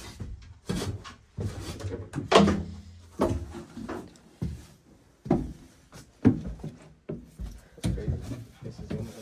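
Irregular knocks, clunks and rattles of gear being handled and set down, about a dozen sharp hits spaced unevenly, in a small boat cabin.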